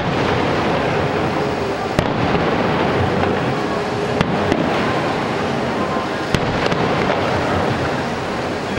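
Fireworks going off in a dense, continuous barrage of crackling and rumbling, with a few sharper, louder bangs standing out.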